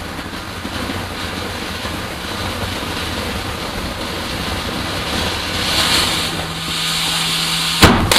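Lit garden firework hissing steadily as it burns, the hiss swelling louder, then a single sharp bang near the end.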